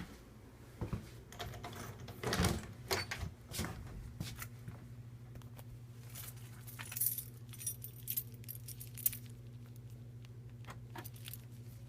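A bunch of keys jangling and clicking in irregular bursts over a steady low hum.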